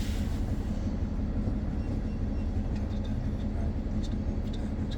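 Steady low rumble of a BYD BD11 battery-electric single-deck bus on the move, heard from inside the saloon: tyre and running noise with a few faint clicks.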